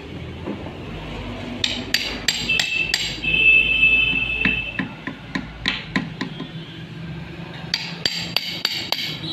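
Sharp metal clinks and knocks of tools and parts during work on a manual car gearbox being reassembled, with a metallic ringing tone for about two seconds near the middle.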